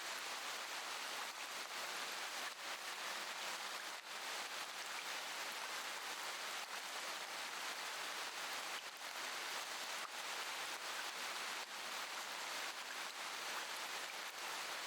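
Steady rain: an even hiss with faint ticks of single drops.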